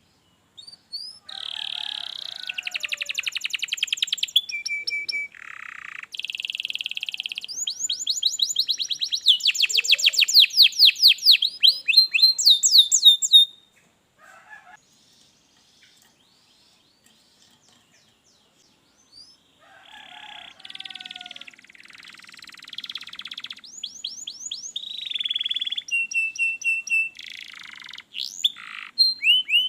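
Domestic canary singing long phrases of fast trills and rapid repeated high notes, breaking off for several seconds in the middle before singing again.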